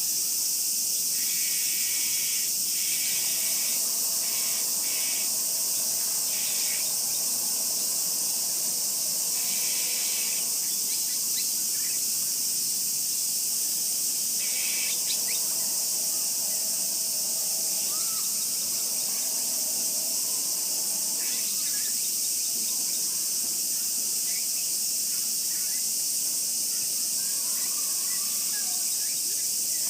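Steady, loud high-pitched chorus of summer insects. Short bursts of chirping break in over it a few times, in the first few seconds, around ten seconds in and around fifteen seconds in.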